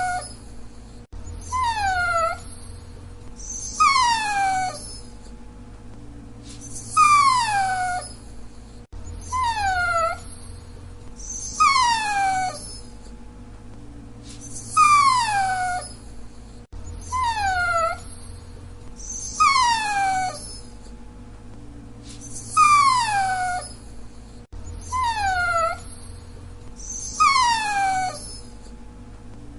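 Dachshund whining: a string of high-pitched whines, each sliding down in pitch, about one every two to three seconds.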